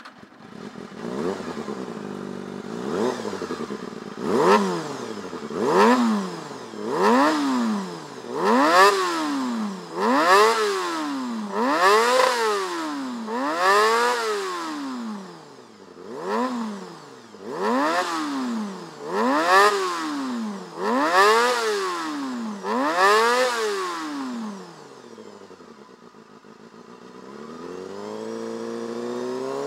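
Honda Hornet 250's inline four-cylinder engine, through an aftermarket Motogear muffler, blipped repeatedly, about a dozen quick revs that rise and fall. It then drops back to idle and climbs in a longer, steady rise near the end.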